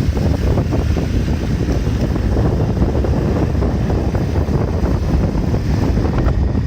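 Wind buffeting the microphone on a moving motorbike: a loud, steady, low rushing.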